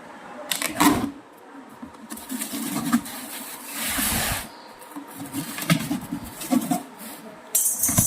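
Irregular knocks, clicks and scraping from washing-machine clutch parts being handled during a clutch replacement, with a short hiss about four seconds in.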